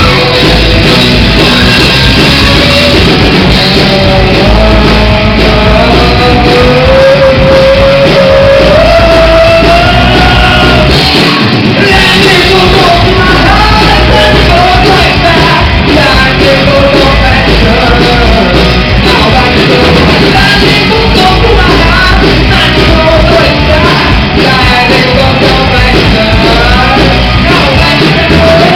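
Live rock band playing loud, with shouted singing over distorted guitars and drums, heard in a large room.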